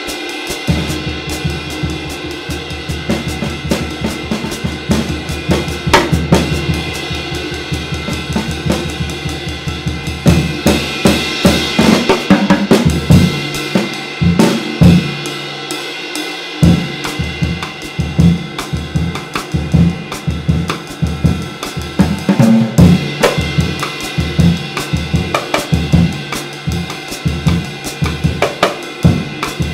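Drum kit being played with a very light, hand-hammered, finely lathed K-style bronze ride cymbal ringing over the drums. A steady beat of low drum strokes sets in about halfway through.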